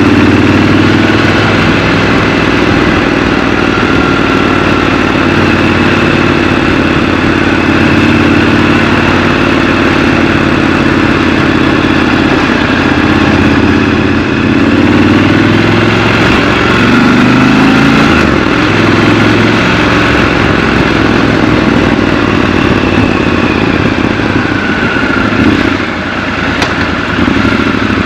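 Triumph Scrambler 1200 XC's 1200 cc parallel-twin engine running steadily as the motorcycle is ridden, its note rising and falling a little with the throttle and easing off near the end.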